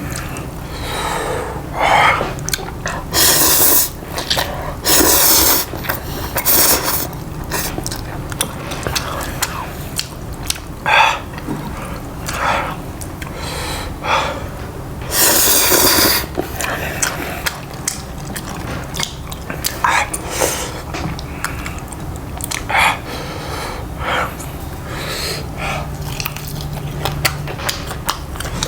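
Close-miked ASMR eating: bites and chewing, with many short, irregular noisy bursts and some breathing between them.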